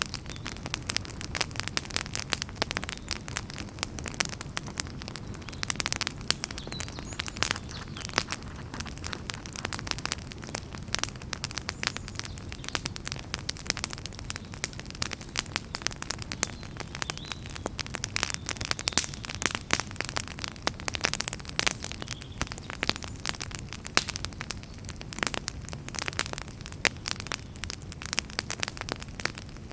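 Campfire burning, with dense, irregular crackles and pops of firewood over a steady low rumble of flame.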